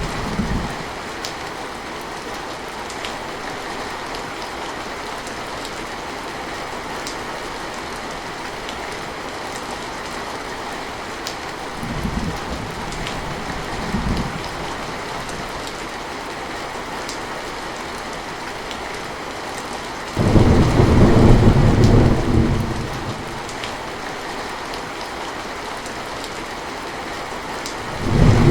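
Heavy rain falling steadily, with low rolls of thunder: two short rumbles near the middle, a loud one breaking in suddenly about two-thirds of the way through and fading after a couple of seconds, and another starting right at the end.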